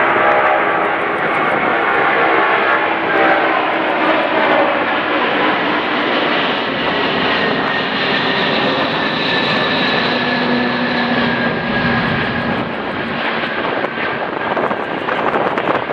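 Antonov An-225 Mriya's six turbofan engines at takeoff power: a loud jet roar with whining tones that slide slowly lower as the aircraft goes by.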